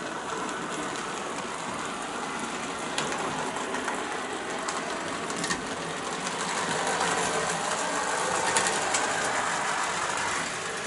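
OO gauge model locomotive running along the track, its small electric motor and wheels making a steady whirr that grows louder about two-thirds of the way in, with a few sharp clicks over rail joints.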